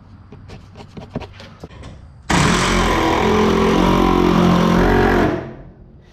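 A few light clicks and knocks of wood and parts being handled, then a power drill starts abruptly about two seconds in and runs steadily under load for about three seconds, driving a long screw into wooden benchwork, before winding down.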